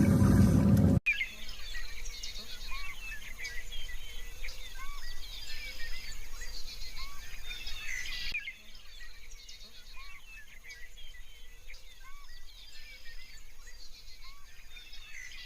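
Many small birds chirping together, a dense chorus of short, overlapping calls. It starts suddenly about a second in, after a brief louder rushing noise, and turns quieter past the middle.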